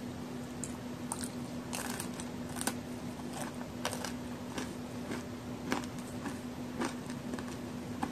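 Close-up crunching and chewing of a crisp homemade chocolate-and-raisin cookie: a bite, then irregular crisp crunches a few times a second. A steady low hum runs underneath.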